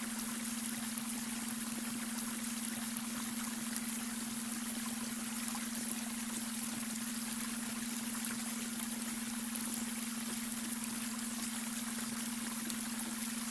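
Babbling brook: a steady stream of water trickling and splashing, with a steady low tone underneath, the beta brainwave tone blended into the soundscape.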